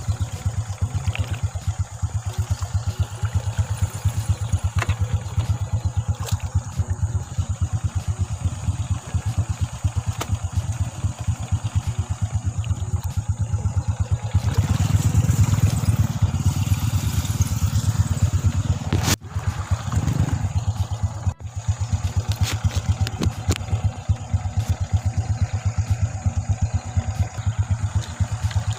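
Honda motorcycle engine running in a steady, rapid beat, growing louder for a few seconds about halfway through before settling back.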